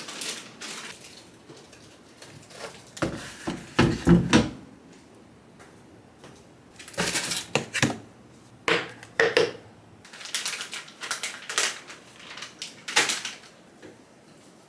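Groceries being handled and set down: scattered knocks, clatters and brief rustling in several clusters, with quiet gaps between.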